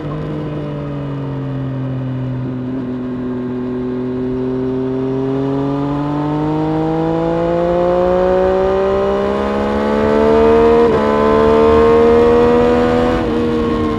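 Triumph Street Triple RS 765 cc inline three-cylinder engine under load on track, the revs easing at the start and then climbing steadily as the bike accelerates, with brief small breaks in the note near the end.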